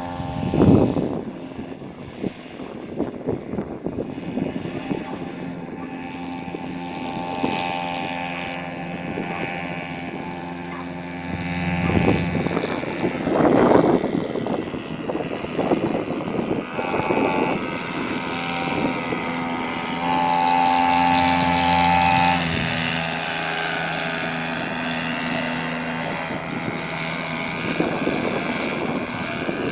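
Hangkai 3.5 hp outboard motor running steadily under way, its pitch shifting a little partway through, with two brief louder rushes of noise, one about a second in and one near the middle.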